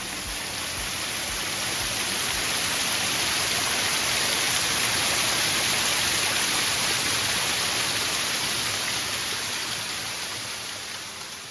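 Small waterfall rushing and splashing with a steady roar of falling water that swells and then fades near the end.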